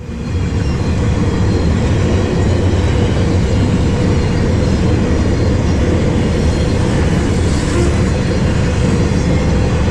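Freight train cars rolling past: a steady, loud rumble of wheels on the rails.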